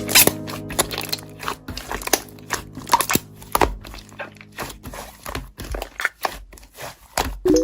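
Slime being pressed and squished by hand, giving a dense run of irregular crackling clicks and pops.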